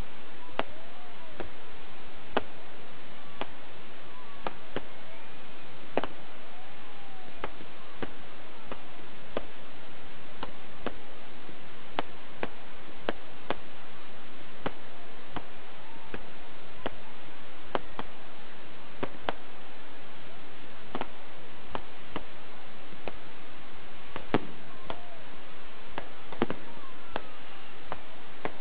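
Aerial fireworks exploding one after another: sharp bangs and cracks at irregular intervals, roughly one or two a second, over a steady hiss.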